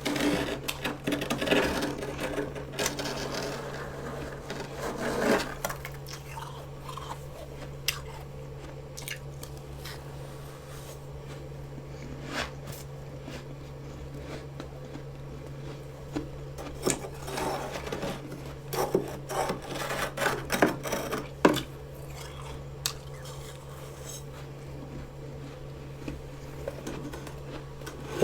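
Fresh freezer frost being scraped and crunched in bites, with sharp crackles and clicks in two spells, over a steady low hum.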